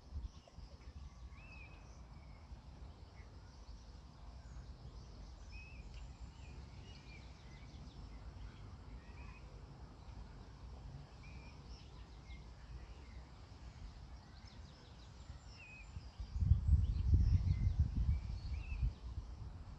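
Small birds chirping now and then in short calls over a low, uneven rumble. The rumble swells loudly for a few seconds near the end.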